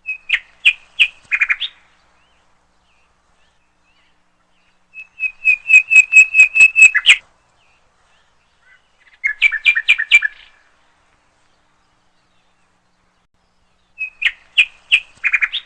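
A songbird singing: four short phrases of rapid repeated chirping notes, a few seconds apart, with silence between them.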